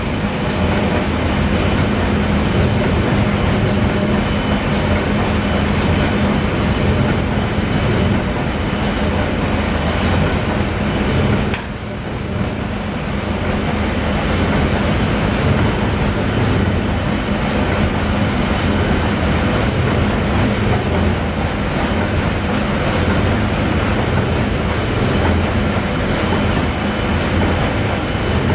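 Paddle steamer's steam engine running steadily under way, a loud continuous mechanical clatter over a steady low hum, dipping briefly about twelve seconds in.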